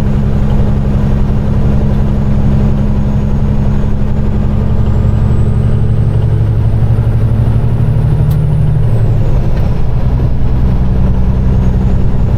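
Peterbilt 389 semi truck's diesel engine running steadily, heard from inside the cab while cruising on a snowy road. A faint high whine rises slowly and then falls away about nine seconds in as the engine note shifts, with a single sharp click just before.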